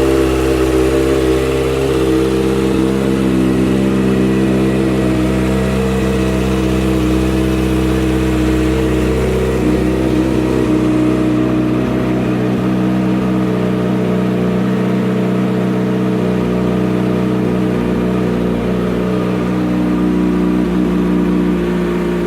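A 2009 Kawasaki ZX-6R's 599 cc inline-four engine, breathing through an aftermarket M4 exhaust, idling steadily with only small shifts in pitch.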